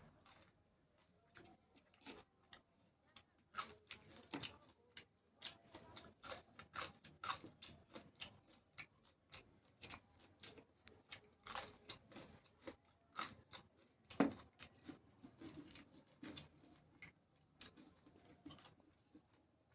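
A person chewing crunchy raw vegetables: irregular crisp crunches, several a second, with one sharper bite about fourteen seconds in.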